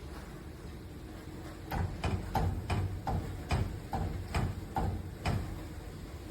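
Microwave oven making a run of short sharp pops, about two to three a second, starting a little under two seconds in. It is the weird popping like popcorn that the owner says this microwave began making after a couple of months of use.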